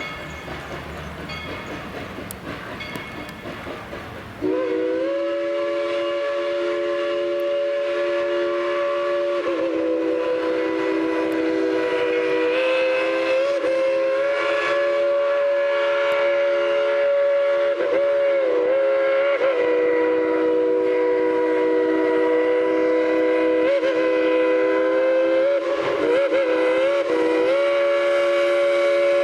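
Steam locomotive No. 190's chime whistle blowing one long held chord of several tones, starting about four seconds in. Its pitch sags and recovers briefly a few times as the whistle cord is worked. Before it comes a low rumbling noise.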